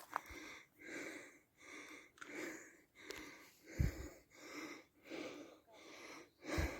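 A person breathing hard close to the microphone, quick rhythmic breaths about two a second, with a dull low thump about four seconds in and again near the end.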